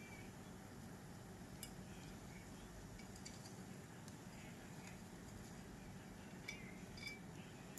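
Quiet room tone with a few faint light clinks and taps, one about one and a half seconds in and two more near the end.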